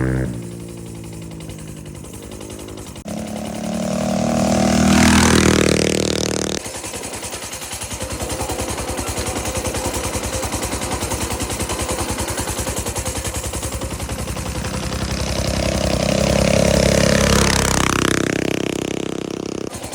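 Small minibike engines: one idles close by with a steady, even pulsing, while other minibikes ride past twice, their engine pitch rising and then falling, about four to six seconds in and again near the end.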